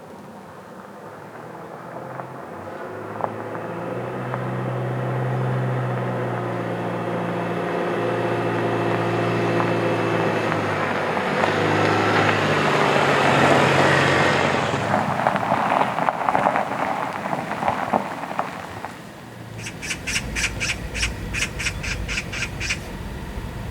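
A car engine running slowly and growing louder, with tyres crackling over gravel about fifteen seconds in. Near the end a bird squawks in quick repeated calls.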